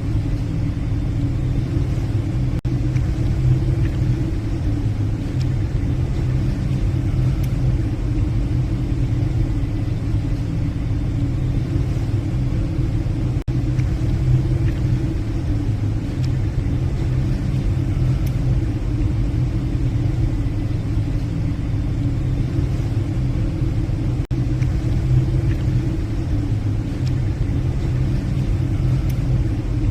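Steady low drone of a passenger ship's engines, heard on board, with a few brief dropouts.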